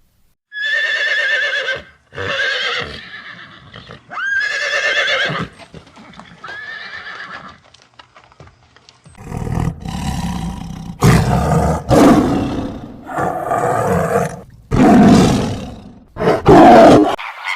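A horse whinnying four times with quavering, pitched calls. From about nine seconds in, a louder run of rough, low calls follows, about one a second, from another large animal.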